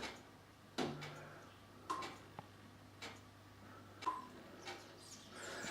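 Faint sharp ticks, about one a second with a couple of extra ones in between, over a faint steady low hum.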